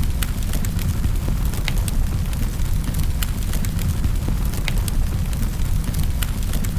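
Wood fire in a fireplace crackling: irregular sharp snaps and pops, a few each second, over a steady low roar of the flames.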